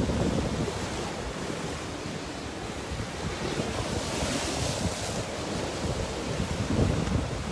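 Sea surf washing onto the shore in a stiff wind, with gusts buffeting the microphone; a wave swells into a louder hiss about four seconds in.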